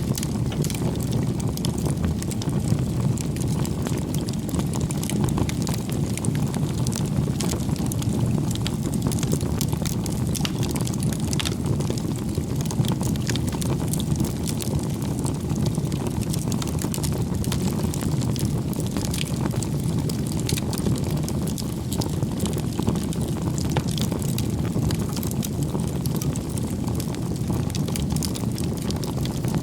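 Wood campfire burning: a steady low roar of flames with frequent small crackles and pops from the burning firewood.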